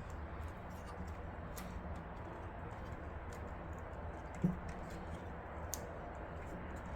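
Faint clicks and small plastic-and-metal handling noises from PC components and cables being fitted, with one light knock about four and a half seconds in, over a steady low room hum.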